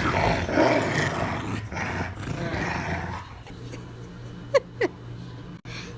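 Dog growling for about three seconds, then two short yips that fall in pitch.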